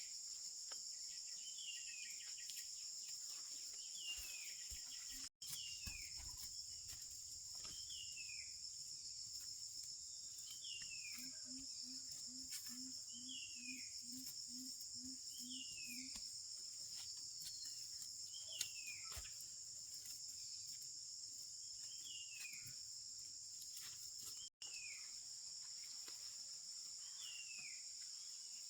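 Night-time-style insect chorus of crickets, a steady high shrill drone, with a short falling chirp repeating about every two seconds. For a few seconds in the middle a low pulsing call comes in at about two pulses a second. The sound cuts out for an instant twice.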